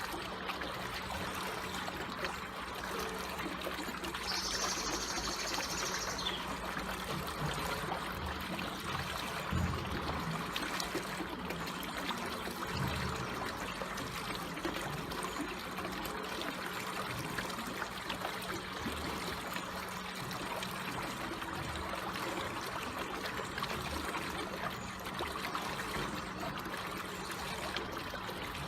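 Slowly flowing water trickling and running steadily, with a brief high chirp about four seconds in.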